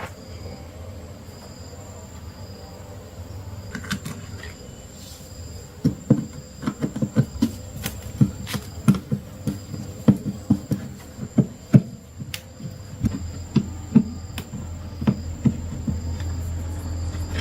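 Irregular sharp taps and knocks, one or two a second, starting about six seconds in, over a steady low hum and a faint high-pitched whine.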